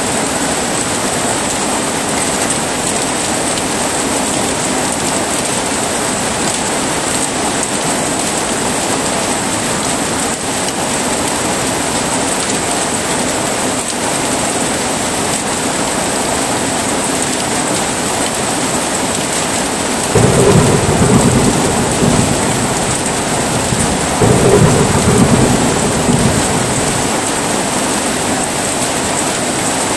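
Heavy rain falling steadily, with thunder rumbling twice, about two-thirds of the way in and again a few seconds later.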